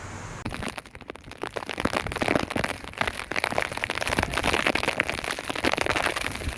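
Heavy rain striking a hard surface: a dense patter of drop impacts that begins about half a second in and grows louder.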